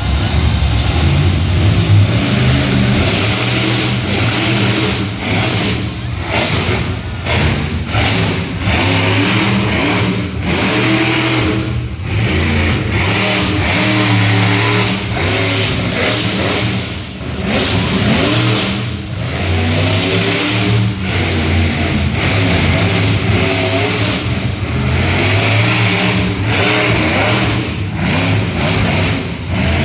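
Monster truck engine revving hard, its pitch rising and falling over and over with frequent brief cut-offs as the throttle is worked on and off.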